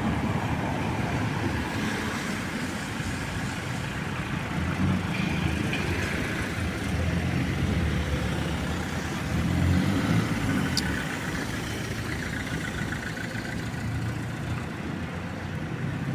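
Street traffic: road vehicles running and passing, a steady low rumble that swells a couple of times. A brief sharp high sound about eleven seconds in.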